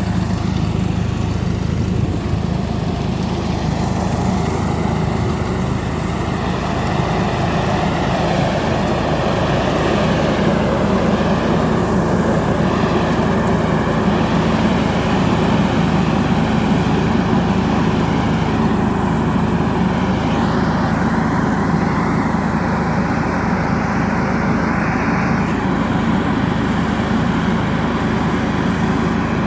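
Hattat B3065 tractor's diesel engine running steadily while working an orchard sprayer.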